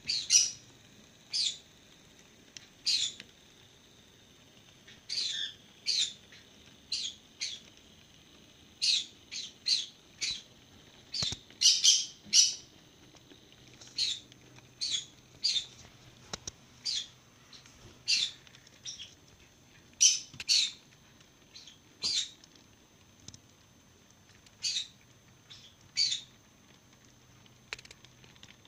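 A small bird chirping: short single chirps repeated irregularly, about one a second. A faint low hum from the model train's motor sits under them in the middle.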